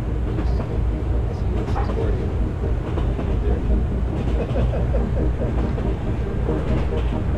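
Model train carrying the camera, running along the layout's track: a steady low rumble of motor and wheels picked up close through the car, with a few faint clicks as the wheels pass rail joints.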